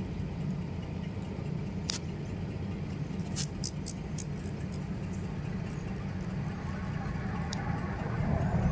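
Vehicle engine idling with a steady low hum, with a few short sharp clicks or snaps scattered through it. The rumble grows a little louder near the end.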